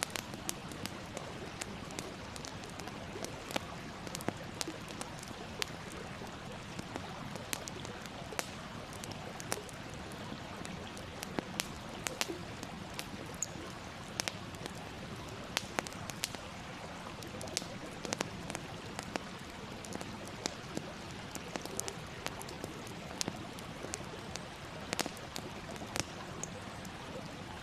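Campfire crackling: a steady hiss with frequent, irregular sharp pops and snaps.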